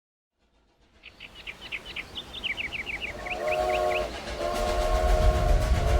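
Recorded steam-train sound effect opening a song track: a building train rumble with a quick run of short ringing strokes, then a train whistle sounding a held chord about three seconds in, breaking briefly near four seconds and sounding again as a heavy low beat comes in.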